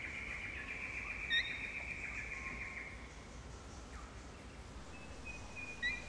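Wild birds calling in rainforest: a long, rapid trill that fades out about three seconds in, with a sharp chirp about a second and a half in and another near the end.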